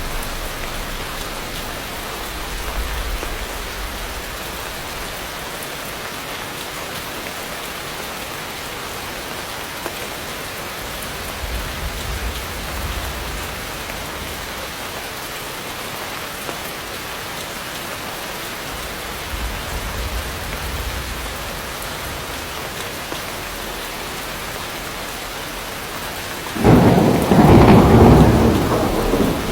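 Heavy rain falling steadily, with low distant thunder rumbling three times, then a loud, close thunderclap that breaks in suddenly near the end and rolls for about two seconds.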